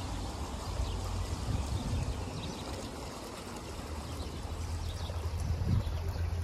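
Steady rush of water flowing along a shallow stream channel, under an uneven low rumble of wind buffeting the microphone.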